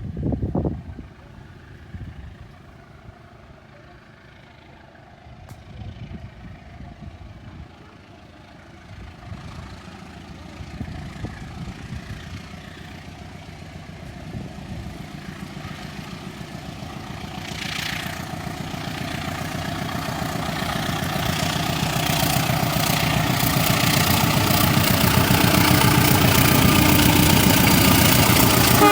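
An approaching diesel passenger train, its locomotive engine and the clatter of its wheels on the rails growing steadily louder over about twenty seconds.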